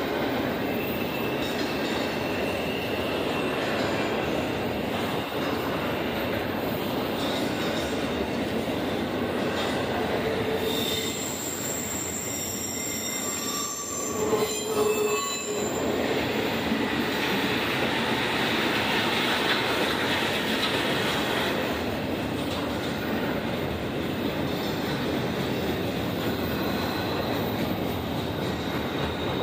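CSX double-stack intermodal freight train rolling past at speed: a steady, loud noise of wheels and well cars on the rail. A few thin, high-pitched wheel squeals come about halfway through.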